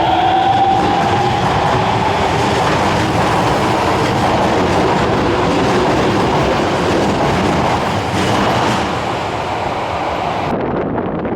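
Subway train pulling out of the platform: the motor whine rises and fades in the first seconds, giving way to a steady rumble and rattle of wheels on rail. The sound changes abruptly near the end.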